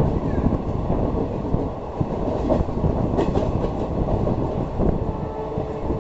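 Passenger train running on the rails: a steady low rumble with wheels clattering over rail joints, and a couple of sharper knocks about halfway through.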